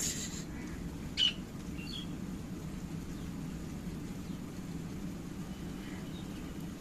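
Pet parrot giving one short, sharp squawk about a second in, followed by a couple of faint chirps, over a steady low background hum.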